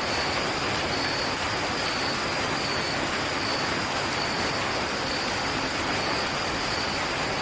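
Steady sizzling of food frying in a pan, an even hiss with no breaks.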